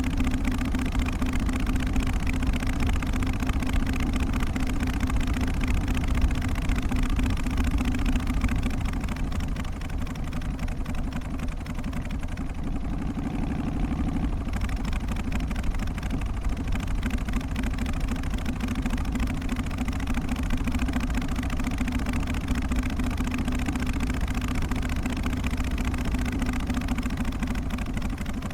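Harley-Davidson Twin Cam 88 V-twin engine of an FXST Softail running steadily, its exhaust note holding an even pitch with a slight dip in level partway through.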